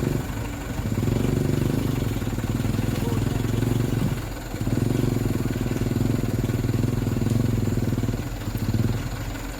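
Mitsubishi Canter truck's diesel engine running hard under a heavy load in mud. Its note is steady but dips briefly about half a second in and again around four seconds in.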